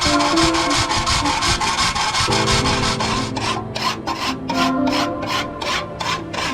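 Hand file or rasp worked back and forth in quick, even strokes, about three a second, scraping during cleaver restoration.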